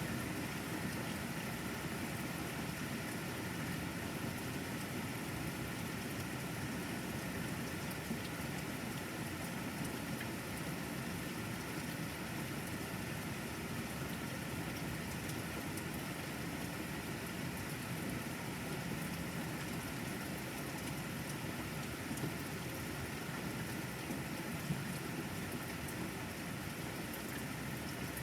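Steady rain falling, with a few faint ticks here and there.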